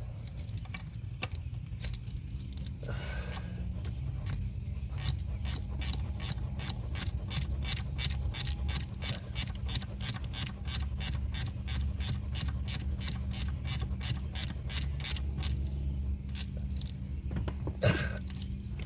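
Ratchet wrench clicking steadily as a nut is run down onto a stud, about four clicks a second, over a steady low hum.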